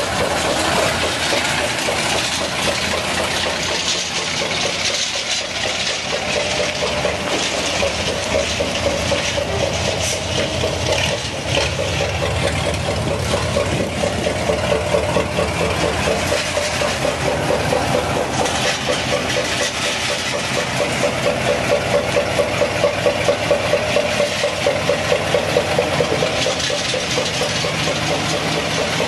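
A Hino dump truck's diesel engine running steadily, with an even, rhythmic throb that grows stronger in the second half.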